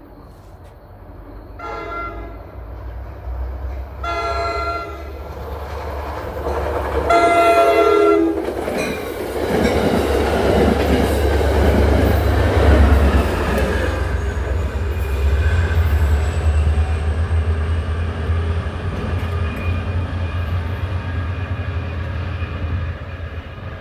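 Atlantic City Line passenger train sounding its horn three times on approach, each blast longer than the last, then rushing past at speed with a heavy low rumble and the clatter of wheels on the rails.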